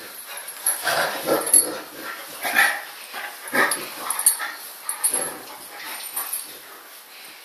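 Large dogs vocalising at play in several short bursts, somewhere between whines, yips and soft barks.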